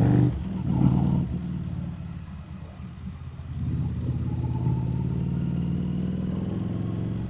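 Harley-Davidson Street Rod 750's V-twin engine under way. The engine note falls away in the first seconds as the rider eases off, then picks back up to a steady cruising note.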